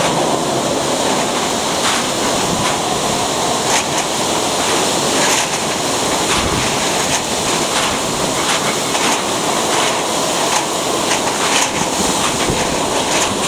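Typhoon wind and rain: a loud, steady rush with many brief surges.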